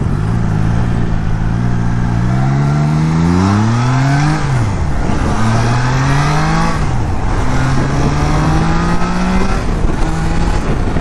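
Triumph Trident 660's inline three-cylinder engine accelerating through the gears. The revs climb, drop at a shift about four and a half seconds in, climb again and drop at another shift about seven seconds in, then run nearly level until a third drop near the end.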